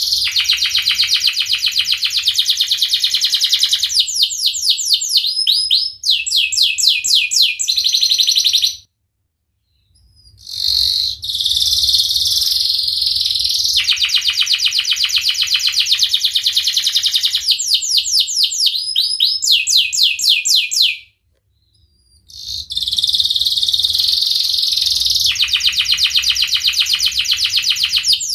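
Domestic canary singing a long song of rapid rolling trills and quick sweeping chirps, broken twice by a silence of about a second and a half.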